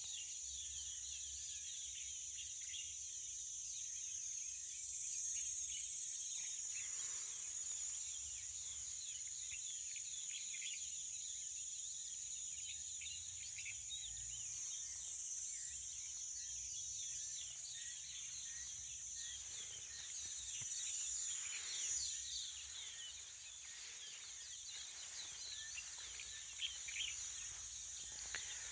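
Morning chorus of many small birds chirping and twittering rapidly and continuously, over a steady high-pitched insect drone.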